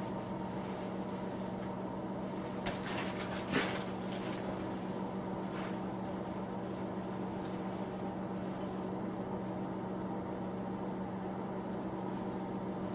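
Steady hum of a small shop space heater running, with a short cluster of clicks and knocks about three seconds in.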